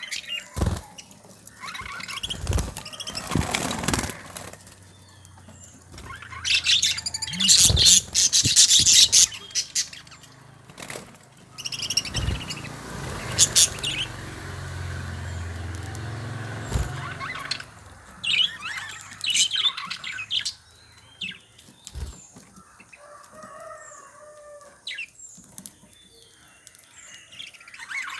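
Pet budgerigars chirping, with repeated noisy bursts of wing flapping; the loudest flurry comes about seven to nine seconds in.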